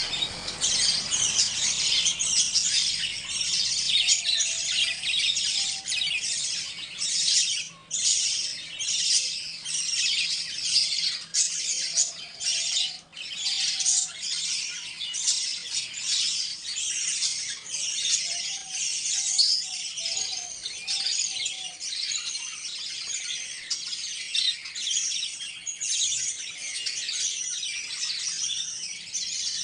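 A flock of small pet parrots chirping and chattering without a break, many short high calls overlapping, with a few lower warbling calls now and then.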